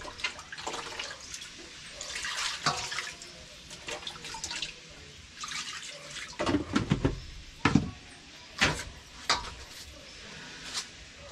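Water from a kitchen tap splashing in the sink as raw chicken is rinsed, with several sharp knocks of handling in the sink between about six and nine and a half seconds in.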